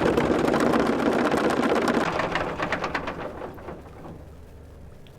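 Anchor chain rattling out fast through the windlass and bow roller as the anchor drops, a dense metallic clatter that slows and fades away about three to four seconds in.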